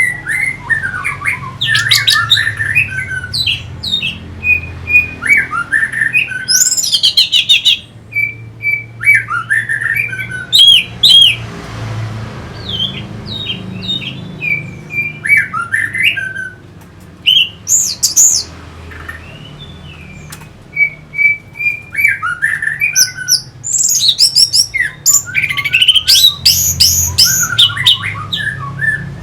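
Orange-headed thrush singing: loud, varied phrases of whistled notes, chatters and quick high trills, delivered in bursts separated by short pauses.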